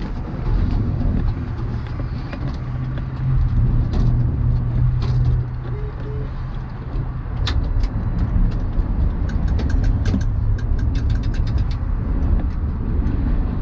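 A large vehicle's engine running steadily with a low drone, joined by a series of short rattling clicks in the second half.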